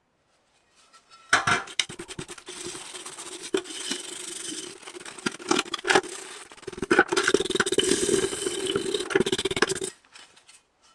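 A tool scraping and rubbing hard against a workpiece, with many sharp clicks and a steady hum underneath. It starts about a second in, eases briefly past the middle, and cuts off abruptly near the end.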